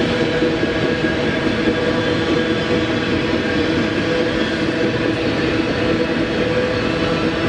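Freight train rolling past close by: a steady, loud rumble and rattle of the cars on the rails, with a few faint steady tones riding over it.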